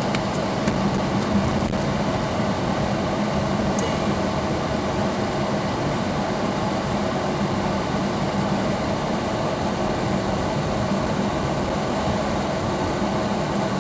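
Steady hum and rushing noise inside a car cabin, from the running engine and ventilation fan.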